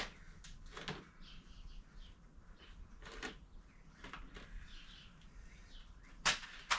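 Light, scattered clicks and knocks of small brake-cylinder parts being handled on a workbench, with two sharper knocks near the end.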